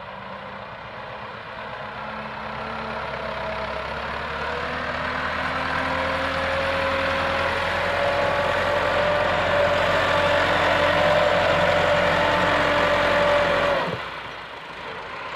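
Massey Ferguson 385 tractor's diesel engine running steadily and growing louder over about 13 seconds, its pitch rising slightly, then dropping away suddenly near the end.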